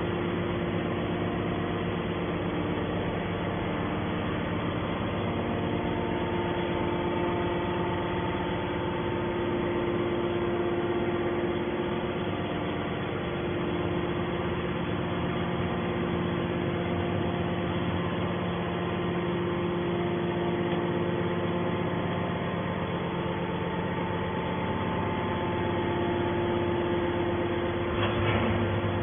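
Hydraulic scrap steel baler running, its motor and pump giving a steady hum with several constant tones.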